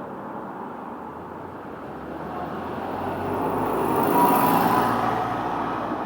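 A road vehicle passing by close in traffic, growing louder to a peak about four seconds in and then fading, with a brief hiss and a faint whine at its loudest.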